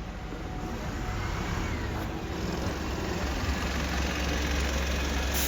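Low rumble of a road vehicle growing steadily louder, with a deeper steady drone setting in about three seconds in.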